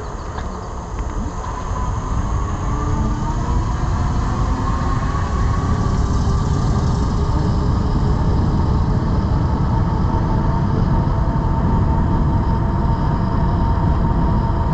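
Wind rumbling on the microphone of a moving e-bike, growing louder over the first few seconds as the bike picks up speed, with a thin whine from the drive that rises slightly in pitch and then holds steady.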